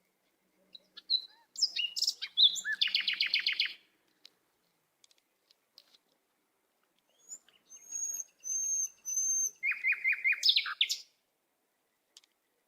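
A small bird singing in two bursts, one about a second in and one about seven seconds in, each made of quick high chirps and a fast trill. The second burst opens with three short high whistled notes.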